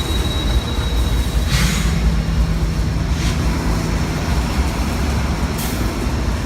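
A train moving past at close range: a steady heavy low rumble with a held tone through the middle, and a few short sharp noises from the cars.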